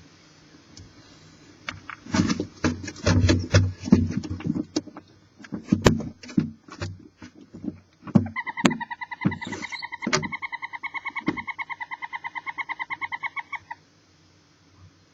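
Barn owls in a wooden nest box: scuffling, clicks and knocks of movement, then a rapid chittering call of evenly spaced pulses that lasts about five seconds and stops.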